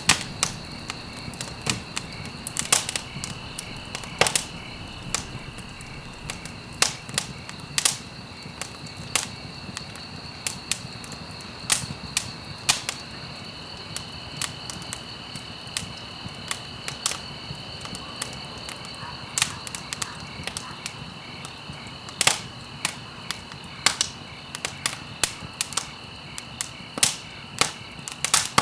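Wood fire burning in a fireplace, crackling with frequent irregular sharp pops and snaps over a low steady rush. A faint steady high-pitched whine runs underneath.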